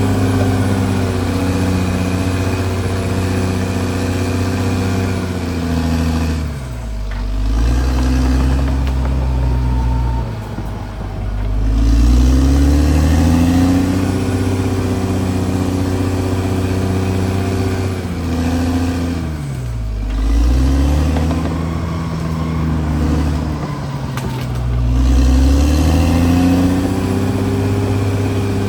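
Diesel engine of a CAT D6R XL bulldozer running hard, its speed sagging and then climbing back three times, about a quarter, two thirds and nine tenths of the way through.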